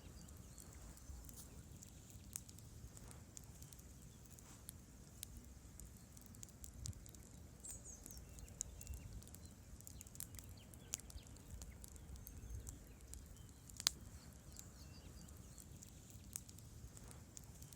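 Wood campfire burning: logs crackling with scattered, irregular pops, one sharper pop about 14 seconds in, over a low rumble of the flames.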